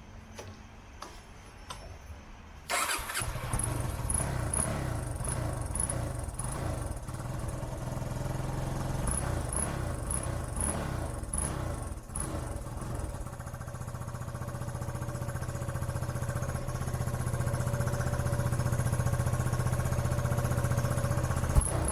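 Yamaha motorcycle engine electric-started, catching suddenly about three seconds in and then running steadily. This is a test start after the starter sprag clutch was replaced.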